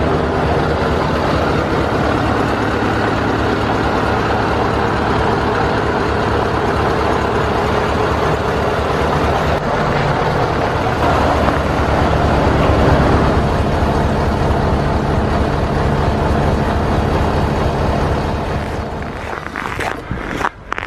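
1986 Scania 142H truck's V8 diesel engine running steadily, louder in the middle, then dropping away near the end.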